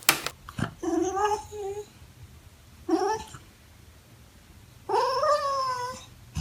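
American Eskimo dog making three 'talking' vocalizations, each one rising and then falling in pitch. The middle call is short and the last is the longest.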